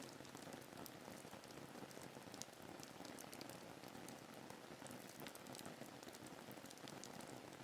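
Faint, steady rain ambience: an even patter with scattered individual drop ticks.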